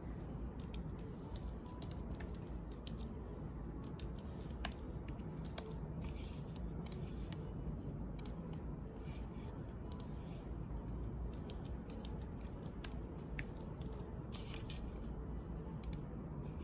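Computer keyboard typing: irregular quick key clicks, some louder than others, over a steady low hum.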